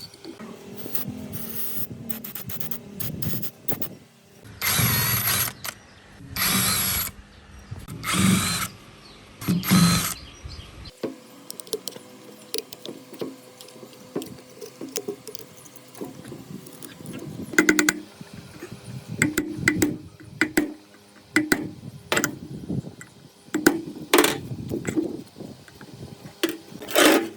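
A power tool run in four short bursts of about a second each, followed by scattered knocks and clicks of metal parts being handled.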